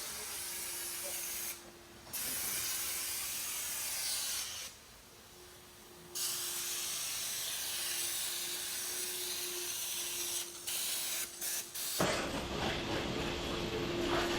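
Pressure washer spraying water in a steady hiss, with a faint steady hum underneath. It stops twice briefly and breaks off a few times near the end, then comes back fuller and heavier.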